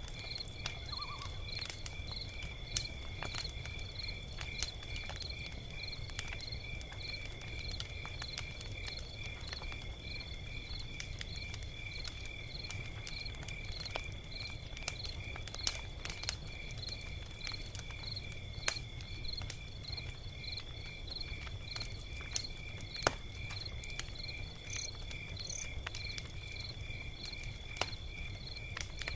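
Log fire crackling, with scattered sharp pops over a low, steady rush. A steady high insect trill with regular chirps, about two a second, runs alongside it.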